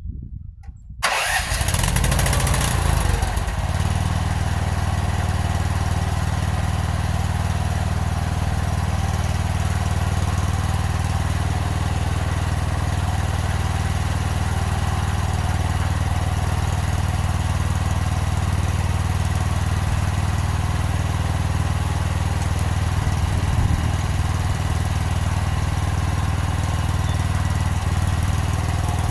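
An engine starts about a second in and then runs steadily at an even speed.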